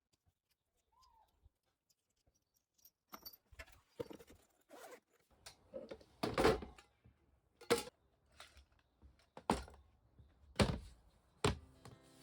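A string of separate knocks and clunks, about a dozen, starting a few seconds in and getting louder, like objects being handled and set down.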